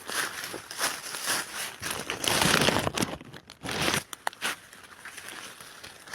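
Rustling and crackling of dry leaf litter being disturbed, in irregular bursts that are loudest about two to three seconds in, with a few sharp snaps.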